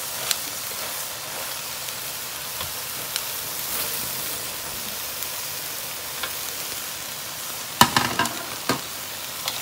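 Chicken strips, peppers and carrots sizzling in an oiled frying pan, a steady hiss, while they are stirred with a utensil that clicks against the pan now and then. A few louder knocks come about eight seconds in.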